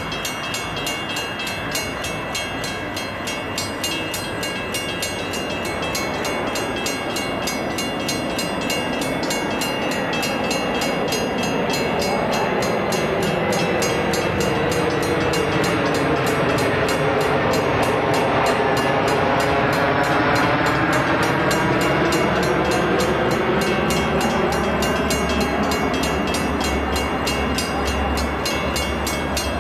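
Grade-crossing bells ring steadily at a quick, even rate while a Metra diesel commuter train approaches. The rushing noise of the train swells through the second half, and the locomotive's low rumble grows near the end.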